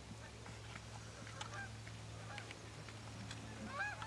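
Faint honking bird calls: a few short nasal calls scattered through, the clearest cluster near the end, over a low steady hum.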